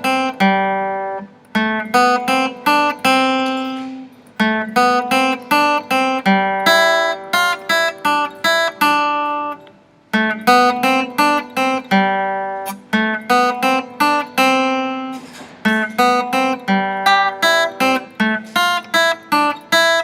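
Acoustic guitar played by plucking, a short song of single notes and chords that each ring and fade, in phrases with brief pauses between them.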